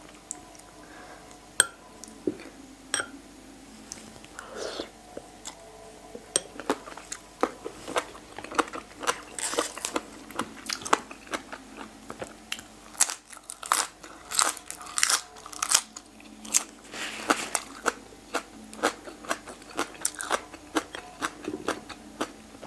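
Close-miked crunchy chewing and biting of boiled pig ear cartilage and raw spring onion stalk. The crunches are sparse at first and become a dense run from about eight seconds in.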